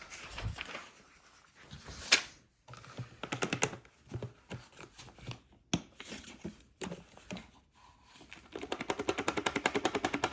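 Plastic parts of an upright vacuum cleaner being handled: scattered clicks and knocks, one sharp click about two seconds in, then a fast, even rattle of about eight knocks a second starting near the end.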